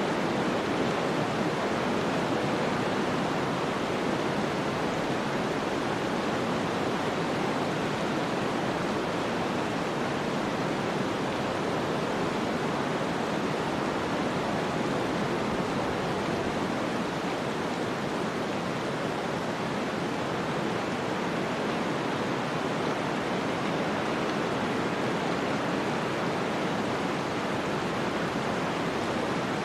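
Snowstorm ambience: a steady, even rush of wind-driven snow with no gusts or separate sounds.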